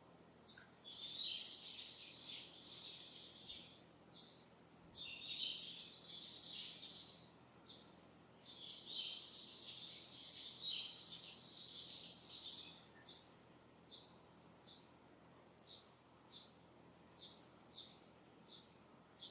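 A songbird singing: three long, rapid twittering songs of high notes, each a few seconds long, then a run of short single chirps about twice a second near the end.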